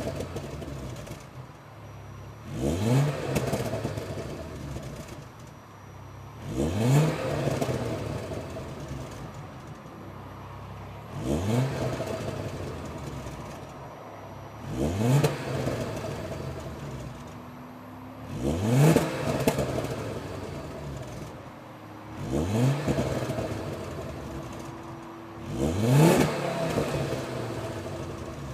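2009 Ford Focus RS Mk2's turbocharged five-cylinder engine on its standard exhaust, blipped from idle seven times about every four seconds. Each rev rises quickly and falls back slowly, with a few pops and crackles as it drops off.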